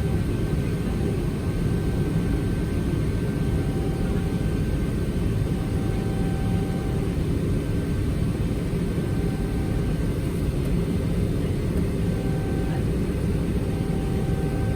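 Steady cabin noise inside a Boeing 777-300ER: a low, even rumble of jet engines and airflow, with a faint steady whine above it.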